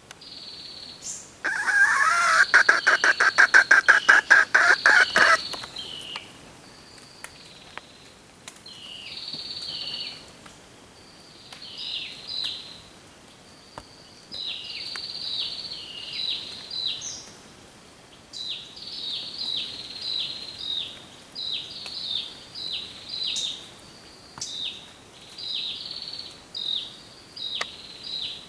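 Bird calls: a loud, rapid chattering call for about four seconds near the start, then a long series of short, high notes, each dropping in pitch, repeated roughly once a second.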